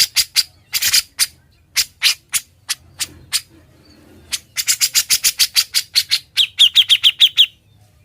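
Grey-cheeked bulbul (cucak jenggot) calling loudly in sharp, chattering notes, spaced irregularly at first, then a fast run of about six notes a second from about four and a half seconds in, its last few notes more clearly whistled, stopping shortly before the end.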